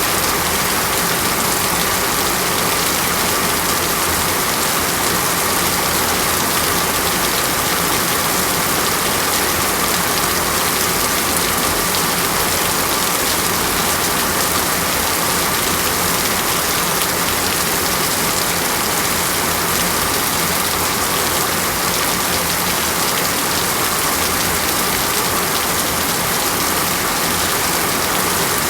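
Heavy rain falling steadily in a tropical forest, an even hiss of many drops with no breaks or thunder.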